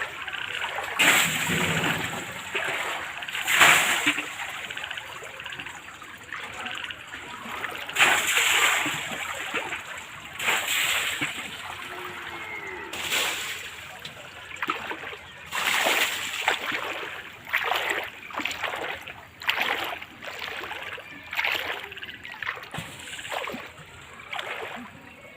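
Water splashing and sloshing in irregular surges, one every two to three seconds.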